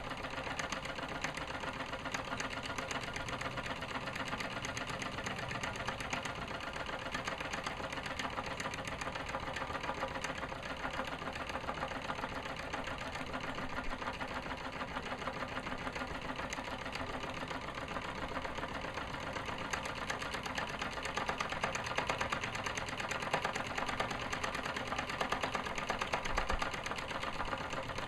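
Mamod SE2 model steam engine from about 1958, running steadily with a fast, even clatter from its single oscillating cylinder. It gets a little louder about three-quarters of the way through.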